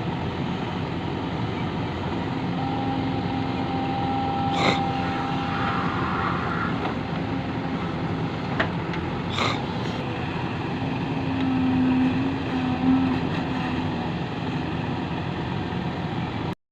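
Heavy diesel machinery running steadily, with a few short knocks, then the sound cuts off suddenly at the end.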